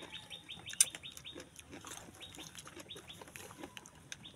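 Birds chirping in quick runs of short falling chirps, several a second at first, then sparser. A few sharp clicks are mixed in, the loudest about a second in.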